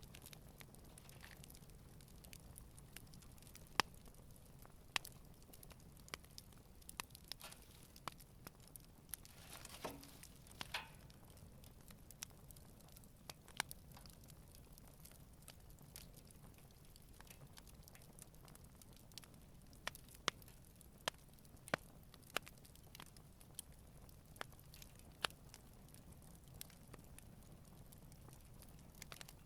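Wood campfire burning gently, crackling with sharp, irregular pops scattered throughout and a brief soft hiss about ten seconds in.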